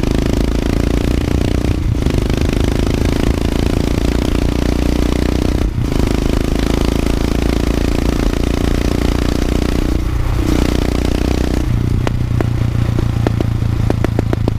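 Royal Enfield Himalayan's 411cc long-stroke single-cylinder engine running under way, its note breaking off briefly about three times. Near the end it changes to separate thumps that come faster and faster.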